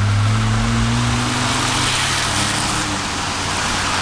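Motor vehicle engine running, its pitch rising slowly through the first second or so and then holding, over a steady rushing hiss.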